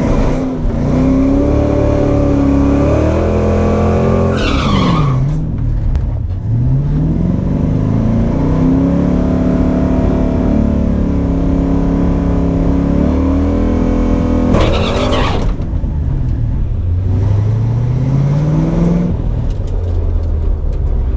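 1989 Mustang GT's 5.0-litre V8 run hard on a drag strip pass, its pitch winding up and dropping back several times, with the biggest drops about four and fifteen seconds in.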